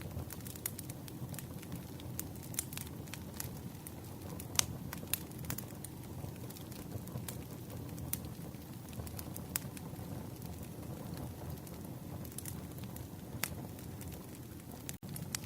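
Wood campfire crackling: a steady low rumble of flames with scattered sharp pops and snaps, one louder pop about four and a half seconds in. The sound drops out for an instant near the end.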